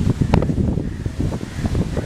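Strong gusty wind buffeting the microphone in a loud, uneven low rumble, with a brief sharp snap about a third of a second in.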